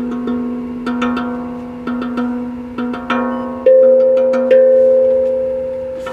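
Resonant metal struck by hand in a slow, uneven rhythm, about ten strikes, each leaving a long ringing tone. The two loudest strikes come a little past the middle.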